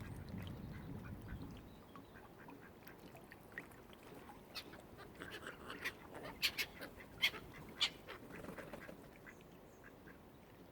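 Waterfowl calling on the water, with a quick run of short, sharp sounds loudest from about five to eight seconds in.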